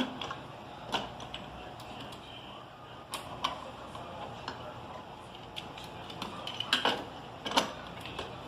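Hard plastic clicks and knocks of a toy airplane's wheel being fitted and snapped into place: scattered light taps, with louder knocks about a second in, at three seconds and twice near the end.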